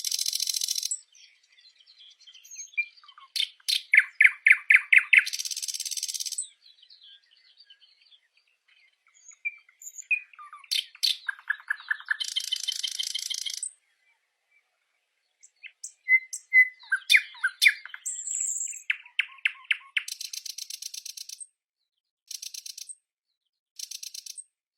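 Songbirds calling and singing in short phrases: quick trills, buzzy rattling calls and single high chirps, with brief pauses between phrases.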